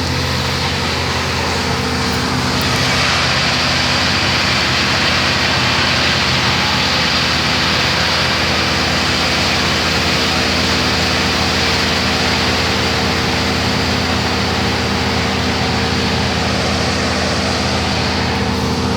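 A large engine of tree-removal equipment running steadily and loudly, with a broad rushing noise that swells about two and a half seconds in and eases near the end.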